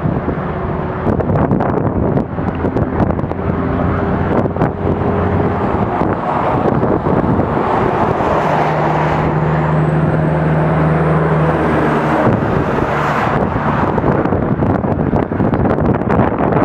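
Road traffic noise: a steady wash of passing vehicles with engine hum, one stronger hum from about halfway through that stops suddenly a few seconds later, and a few short clicks.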